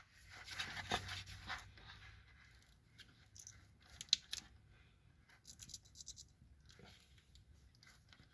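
Faint scratching and scattered small clicks of hands working a plastic wiring harness connector loose from a car alternator.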